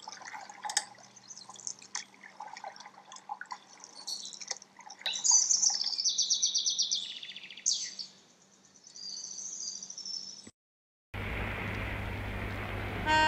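Small birds chirping and trilling in quick high calls, with a few water-like drips among them. The birdsong cuts off suddenly about ten seconds in, and a steady hiss of outdoor noise follows.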